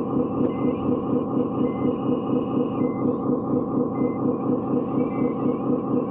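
Radio-controlled construction machine running steadily, with a regular chugging pulse about three times a second.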